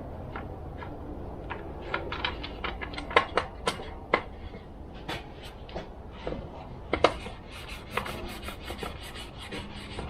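Irregular clicks and clatter of small metal tools and parts being handled on a workbench during chainsaw reassembly, with a quick run of rattling ticks about eight seconds in.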